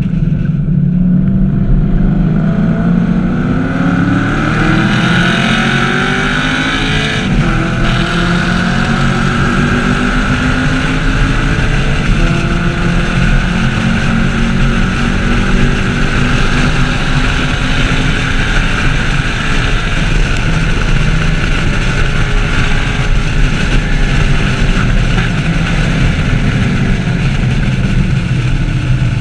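Chevrolet Camaro SS 1LE's 6.2-litre LS3 V8 under hard track driving. The engine pitch climbs through the revs and drops back at each gear change, over constant wind and road noise.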